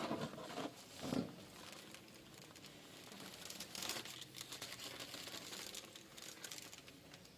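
Irregular rustling and crinkling handling noise, loudest at the start and again about a second in, then fainter rustles.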